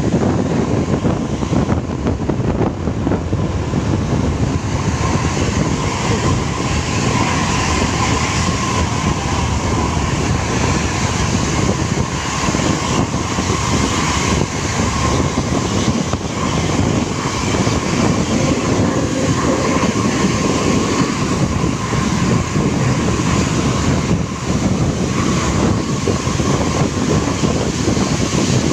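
Intercity bus engine running hard, a loud steady drone with a faint high whine held through it, which the uploader likens to an aeroplane.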